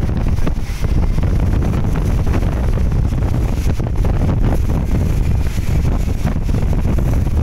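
Strong wind buffeting the microphone: a loud, steady low rumble and rush with no letup.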